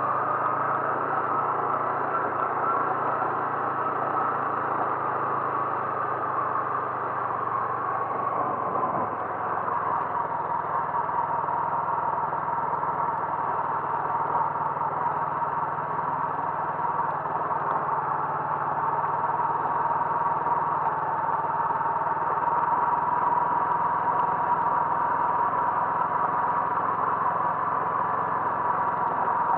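Motor vehicle engine running steadily, with a whine whose pitch drops slightly about eight seconds in.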